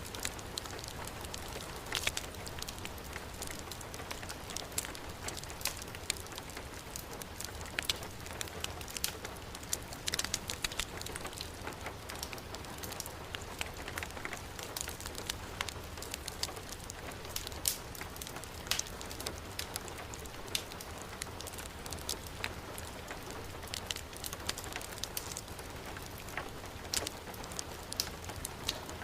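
Heavy rain falling in a steady hiss, with a wood fire in a fireplace crackling: many short, sharp ticks and pops scattered over the rain.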